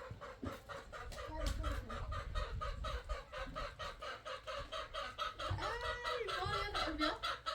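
Chickens clucking in a fast, regular run of about six clucks a second, with a few drawn-out rising-and-falling calls about two-thirds of the way through.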